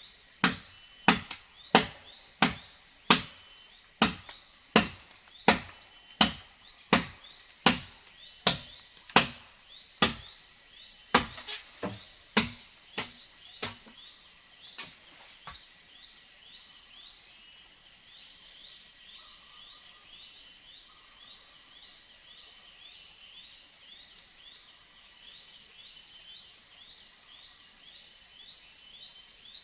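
Repeated chopping blows on wood, about one every 0.7 s for some fourteen seconds, turning weaker and less even before they stop. Insects chirp steadily behind the blows and on after them.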